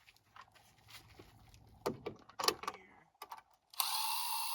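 Screw hardware being handled, with a few clicks and knocks, then a small power tool driving a fastener and whirring steadily for about a second near the end.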